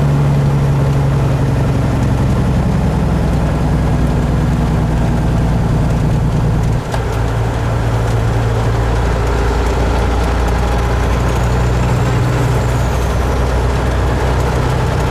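Kenworth truck's diesel engine running steadily under way. There is a brief dip in level about seven seconds in, after which the engine hum settles at a lower pitch.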